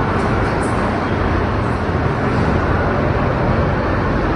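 Steady, loud rumbling noise with no distinct events, strongest in the low range.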